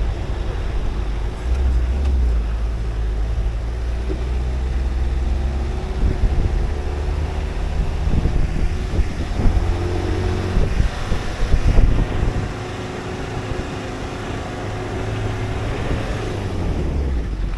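Tour shuttle vehicle's engine running as it drives, a steady low rumble, with a few jolts and rattles partway through.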